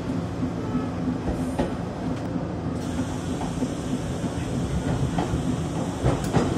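Passenger train running along the track: a steady rumble of wheels on rails, with a few clacks over rail joints and a cluster of louder clacks near the end.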